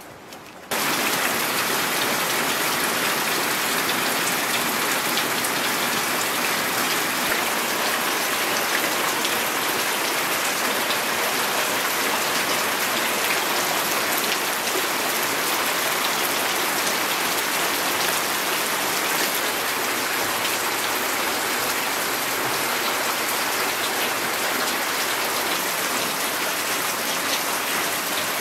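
Steady rain falling, an even hiss of drops that starts abruptly about a second in.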